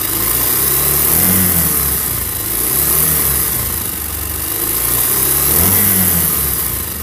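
Bajaj Pulsar single-cylinder motorcycle engine running, blipped up in revs twice, with a jhirjhiri rattling, chattering noise from the top end. The mechanic ties this noise to loose tappet clearance and a slack timing chain at about 17–18 thousand km.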